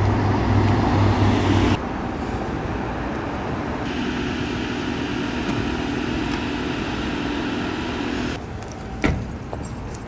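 BMW i8 sports car engine running steadily as the car drives. The sound changes abruptly about two seconds in and drops away about eight seconds in. A single sharp thump follows near the end.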